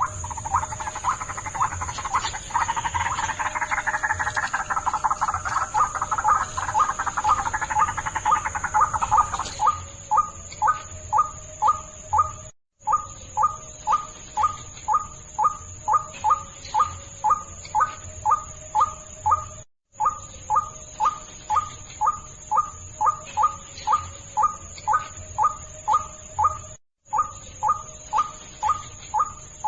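White-breasted waterhen (ruak-ruak) calls: a rhythmic series of short repeated notes, about three a second. For the first nine seconds or so the calls are denser and overlapping, then they settle into an even series, cut to silence three times for a moment.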